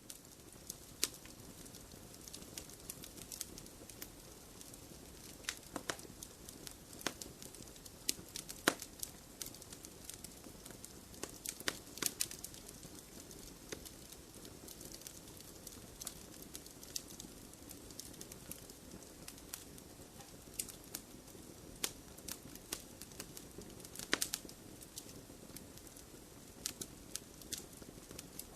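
Wood fire crackling in a fireplace: a soft steady hiss of burning with irregular sharp pops and snaps, a few louder ones scattered through.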